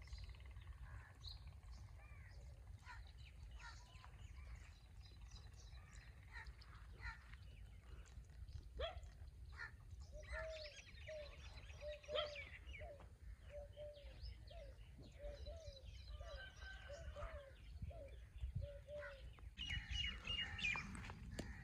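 Birds chirping and calling in the countryside. Through the middle, one bird repeats a short low note about twice a second. A steady low rumble runs underneath.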